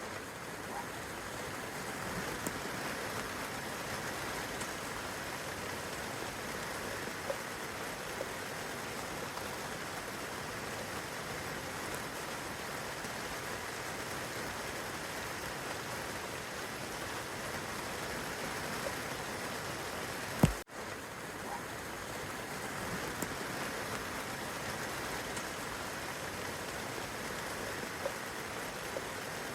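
Steady rainfall: an even hiss with a few faint scattered drips. About two-thirds of the way through there is one sharp, loud click.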